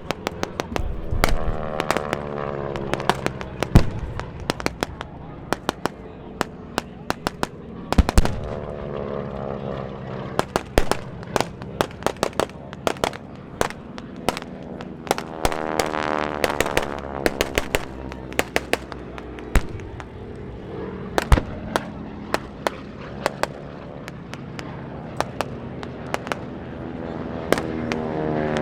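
Pyrotechnic charges popping in rapid, irregular volleys of sharp bangs, simulating gunfire and bomb strikes, while propeller warplanes make low passes, their engine note falling in pitch as each goes by. There are about four such passes, the last building near the end.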